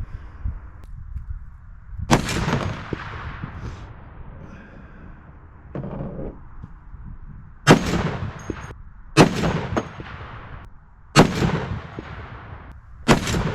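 Barrett M82A1 .50 BMG semi-automatic rifle firing five shots at uneven intervals, each a sharp crack followed by a long ringing echo.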